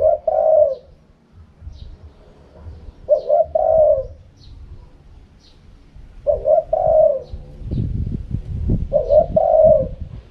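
Spotted dove cooing: four phrases of two-part coos, one about every three seconds. Faint high chirps from another small bird sound between them, and a low rumble comes in near the end.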